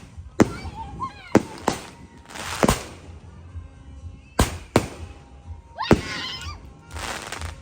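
Dragon Fireworks consumer cake firing: a series of sharp shot reports at uneven intervals, about eight in all, some followed by crackling and, about six seconds in, a short rising whistle.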